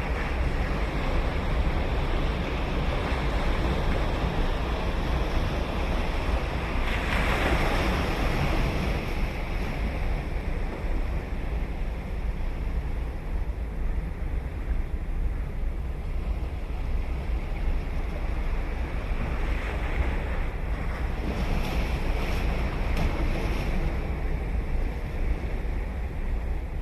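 Ocean waves breaking and washing up a sandy beach, with a steady low rumble of surf; a wave crashes and hisses up the shore about seven seconds in and another around twenty seconds in. Wind buffets the microphone throughout.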